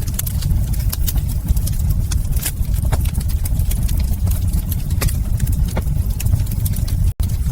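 Wood fire crackling in a fireplace: frequent sharp pops and snaps over a steady low rumble. The sound cuts out for an instant near the end.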